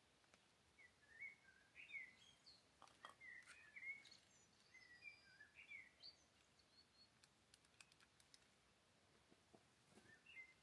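Faint birdsong: a bird calling in short chirping notes over quiet outdoor background, with a few faint clicks in between.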